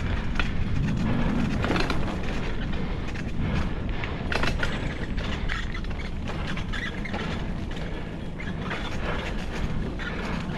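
Continuous low rumble with many irregular clicks and rattles, the sound of moving along a rough forest track with a camera.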